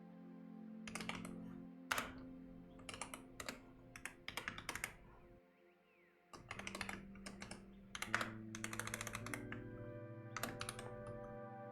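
Computer keyboard typing in quick bursts of keystrokes, with a short pause about halfway through. Soft background music with held notes plays underneath.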